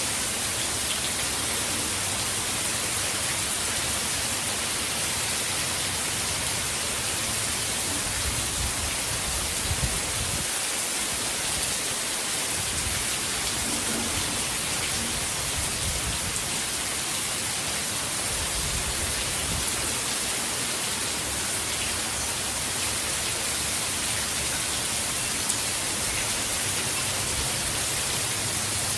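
Heavy hurricane rain falling in a steady, unbroken hiss.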